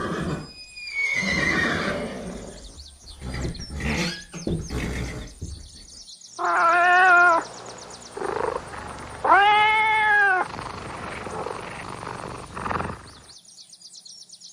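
A run of different animal calls one after another: rough, noisy calls for the first six seconds, then two separate drawn-out pitched calls, one warbling and one whose pitch arches up and back down.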